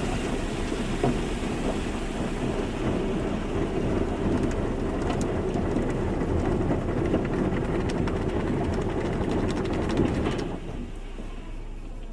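Car wash running: a dense, steady rush of water spray on a car with scattered sharp ticks, which drops off sharply about ten seconds in to a quieter hiss.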